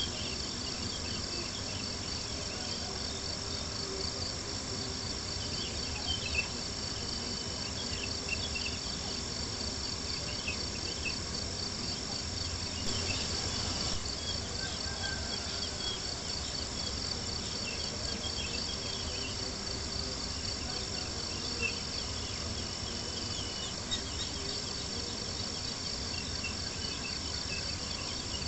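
Crickets trilling steadily in a dense chorus, with occasional sharp pops and crackles from a campfire.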